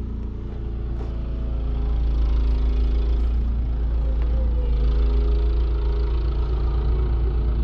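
Snowblower engine running steadily, growing louder over the first couple of seconds as it comes closer, then holding level.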